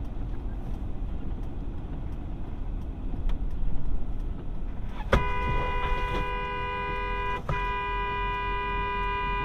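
Car horn held down in two long blasts, the second following right after a brief break, over the steady low rumble of a car driving.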